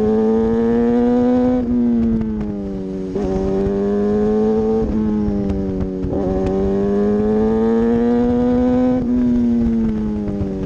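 Motorcycle engine heard from an onboard camera, accelerating and then easing off under braking, over and over. The engine note rises steadily for a second or two and then drops, three times in a row. A steady low rumble of wind on the microphone runs underneath.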